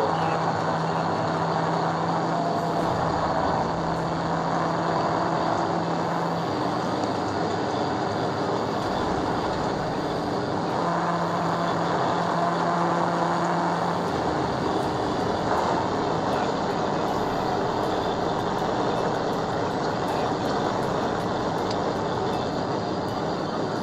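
A vehicle driving at highway speed: steady road and engine noise, with a low engine drone that holds at one pitch for a few seconds near the start and again midway.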